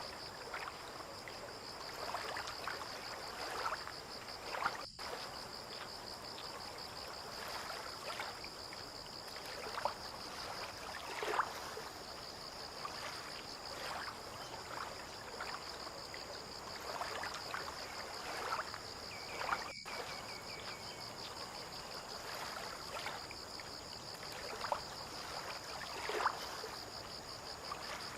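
Small waves lapping and splashing softly in irregular slaps against the harbour edge and moored boats. Over it runs a steady, high-pitched insect trill, and there is a brief high note about twenty seconds in.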